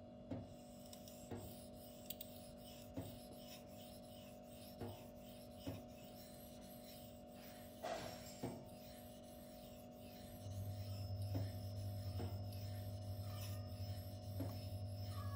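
M390 steel folding-knife blade drawn across a dry Spyderco fine ceramic stone: faint, separate scraping strokes every second or two. A steady low hum comes in about ten seconds in.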